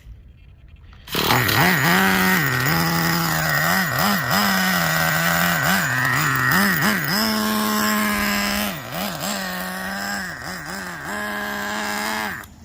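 Traxxas Revo 3.3's TRX 3.3 nitro engine starting up about a second in and running unevenly, its pitch dipping and rising with throttle blips, then cutting out near the end. A cold engine stalling during warm-up, which the owner takes to need more warming up and a clearing out.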